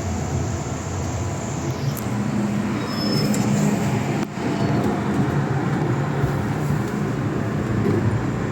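MTR M-train electric multiple unit running at speed, heard from inside the car: a steady rumble of wheels on rail and running gear, with a brief drop about four seconds in.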